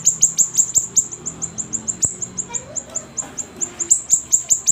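Siri-siri songbird singing rapidly: a fast, unbroken string of sharp, high chips, each dropping quickly in pitch, about eight a second.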